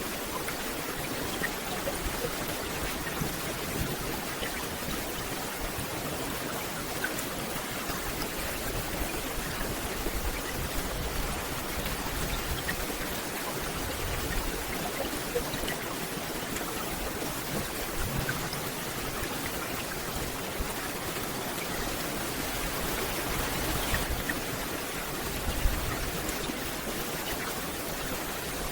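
Steady rain falling on forest foliage: an even hiss with scattered individual drops ticking. It swells slightly near the end, and there is one sharper tap.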